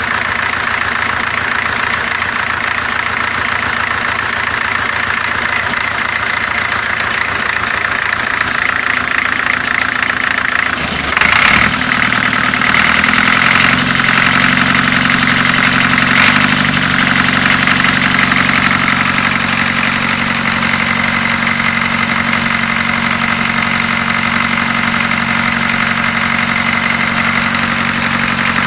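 4Ch8.5/11 four-cylinder four-stroke marine diesel running during its run-in after a rebuild. It runs steadily, then about halfway through there is a sharp knock and its speed rises in a few steps and holds at the higher note.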